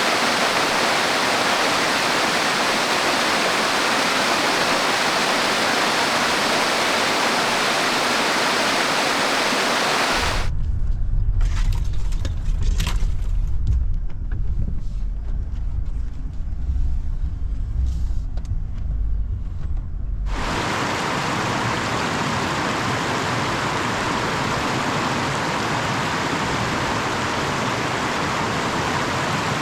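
Steady rushing roar of a waterfall, cut off abruptly about ten seconds in by the low rumble of the Jeep Gladiator Rubicon's engine driving the trail, with scattered knocks and clicks. About ten seconds later it switches abruptly back to the waterfall's steady rush.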